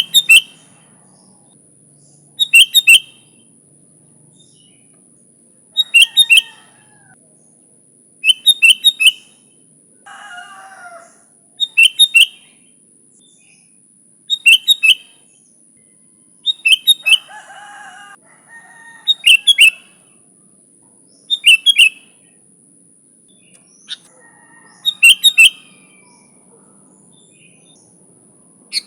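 Sooty-headed bulbul calling: short, sharp phrases of two or three quick notes, repeated about every two to three seconds. Softer, lower chattering comes in twice between the phrases.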